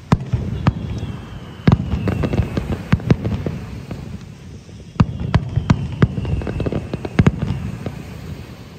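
Pirotecnia Zarzoso's aerial fireworks display: shells bursting in quick runs of sharp bangs, with crackling between them. Fresh, louder volleys start just under two seconds in and again about five seconds in.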